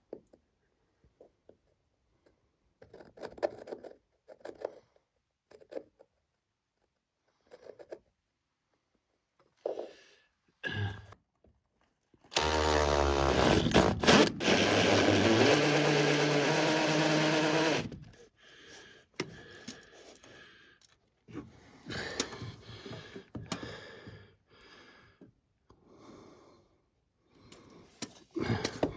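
Handheld power drill running for about five seconds, its pitch rising as it spins up and shifting under load, amid scattered light knocks and handling sounds.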